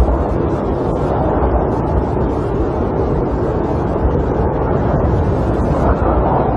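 Snowstorm wind blowing against a camper, a steady deep rush with a low rumble and no breaks.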